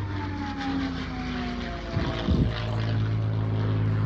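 Propeller-driven P-51 Mustang fighter with its Merlin V-12 engine flying past: the engine note falls slowly in pitch, then settles into a steady, lower drone that grows louder about halfway through.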